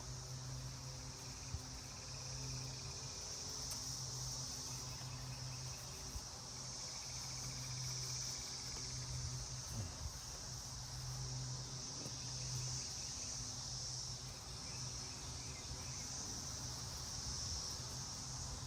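A steady high-pitched insect chorus that swells and fades slowly, over a low steady hum.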